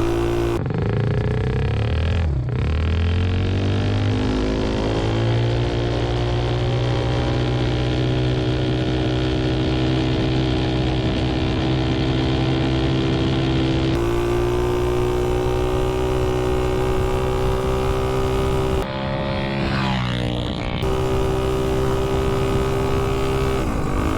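Mini bike's Tillotson 263cc single-cylinder engine running hard through a super pipe exhaust, its pitch climbing to a steady high note at full throttle. The pitch drops briefly and climbs back twice, about two seconds in and again near the end.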